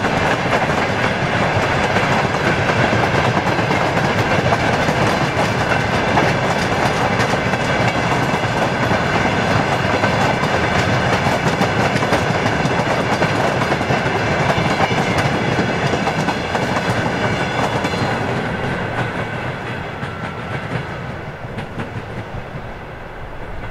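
Empty covered hopper wagons of a freight train rolling past, their wheels clicking over the rail joints with a steady rattle. The sound fades away over the last several seconds as the end of the train moves off.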